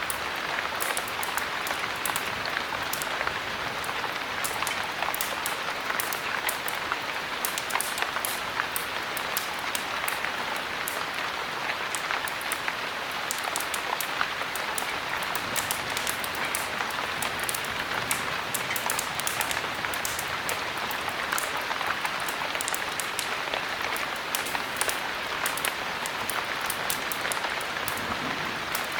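Steady heavy rain, an even hiss that does not let up, sprinkled with many sharp crackles.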